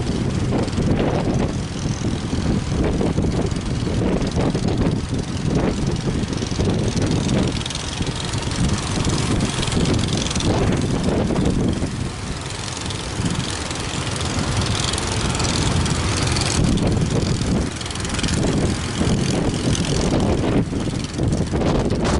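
Strong wind buffeting the microphone: a loud, gusty low rumble that swells and eases every few seconds.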